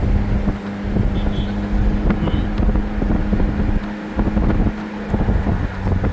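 A car driving along: steady engine and road noise with rattles and bumps, and wind buffeting the microphone.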